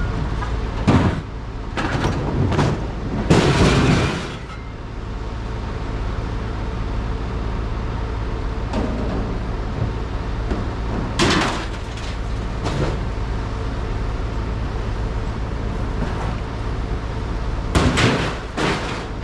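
A heavy engine running steadily, with loud metallic clunks and bangs every few seconds and a longer clattering crash about three seconds in.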